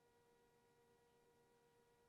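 Near silence, with only a faint steady electrical tone.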